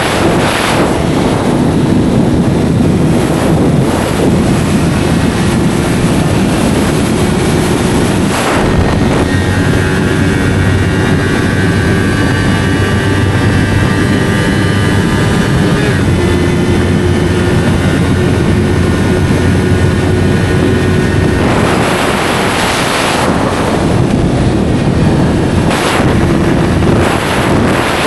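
Yamaha YZF-R3 parallel-twin engine running through an SC-Project slip-on exhaust while riding, heard from on the bike with heavy wind noise on the microphone. The engine holds a steady pitch through the middle stretch, with brief surges of wind and exhaust noise near the start and again near the end.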